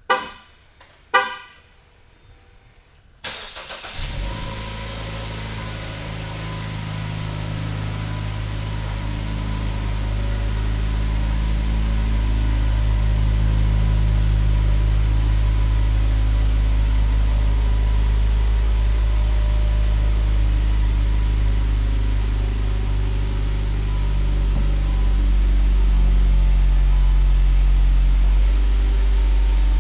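Two short horn chirps from a 2017 Jeep Cherokee Trailhawk, about a second apart, then its engine starts about three seconds in and idles steadily, getting louder over the next ten seconds.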